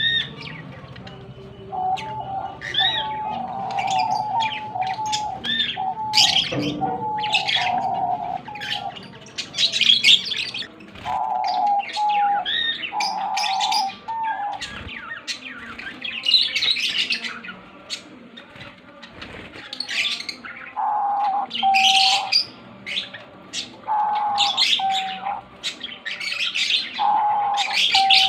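Pet birds chirping and calling continuously in many short, high notes, with phrases of lower, steadier notes that come and go.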